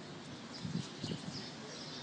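Birds chirping: a run of short, high, downward-sliding chirps repeating about twice a second, with a couple of soft low thumps about halfway through.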